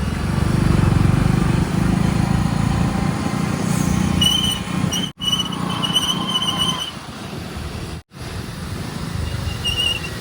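Heavy diesel machinery running with a steady low rumble, with short high-pitched whistling tones in the middle and again near the end. The sound cuts out abruptly twice, as between spliced clips.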